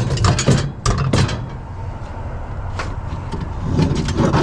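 Scrap items being shifted and set down in a vehicle's cargo space: a quick run of clatters and knocks in the first second, then a few more thuds near the end over a low background rumble.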